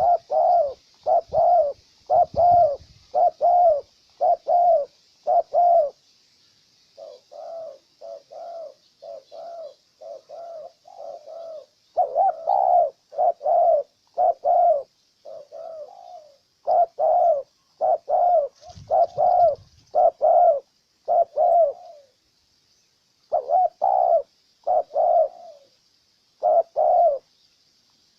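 Spotted dove (tekukur) cooing: a long series of short, loud coos at about two a second, in runs broken by brief pauses.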